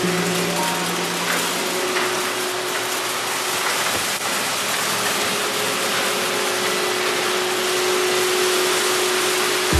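Several robot vacuums running together, a steady whirring of suction motors and brushes as they sweep up scattered rice.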